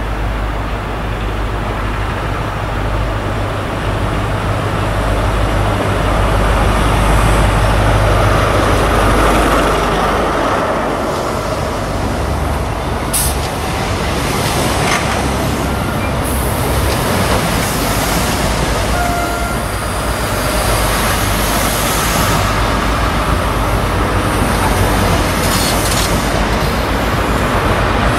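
A First Great Western InterCity 125 High Speed Train running in alongside the platform: a steady low diesel rumble for the first ten seconds or so, then the Mark 3 coaches rolling past over the rails, with a few short squeals and clanks from wheels and brakes.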